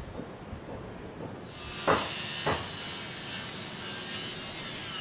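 Construction site noise: a loud hiss starts suddenly about a second and a half in, two sharp knocks follow half a second apart, and a faint falling whine sets in near the end.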